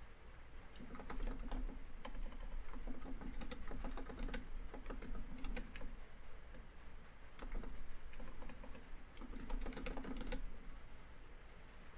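Laptop keyboard typing in bursts of quick keystrokes, with a short pause a little past the middle.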